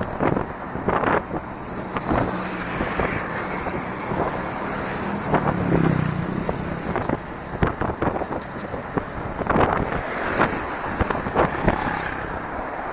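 Bicycle ridden over a rough dirt trail: steady tyre and wind noise with many irregular rattles and knocks from the bike, and wind on the microphone.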